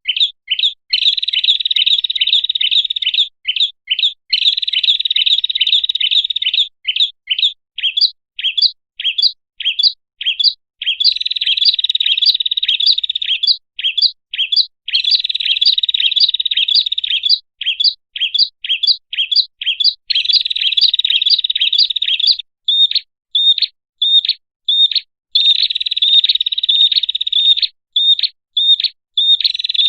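Prenjak (prinia) song played as a bird-lure call: loud stretches of rapid, high trilling alternating with runs of separate sharp chip notes, several a second.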